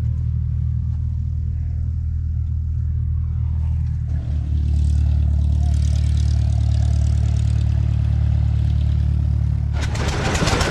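An engine running steadily with a low, even drone, picking up a little about four seconds in. Near the end it gives way abruptly to a louder, clattering noise.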